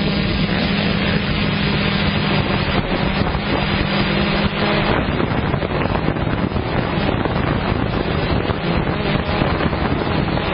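Motocross motorcycle engines running, with wind buffeting the microphone. A steady engine note holds for about the first half, then gives way to rougher, noisier engine sound.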